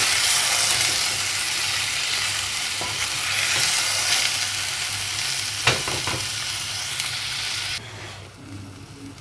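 Chicken feet with ginger, shallots and garlic sizzling in a black clay pot while being stirred with a wooden spatula, with two knocks of the spatula against the pot a little past halfway. Near the end the sizzling drops suddenly to a much quieter hiss.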